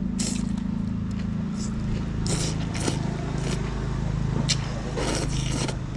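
A steady low engine hum, with several short hissy noises over it.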